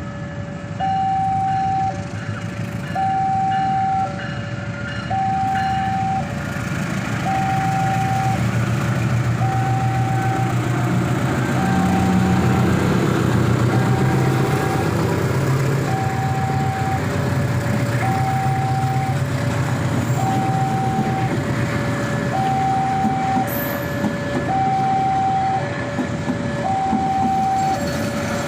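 Diesel locomotive engine of a departing passenger train running with a low rumble that grows louder about twelve seconds in, while an electronic two-tone warning signal alternates high and low about once a second throughout.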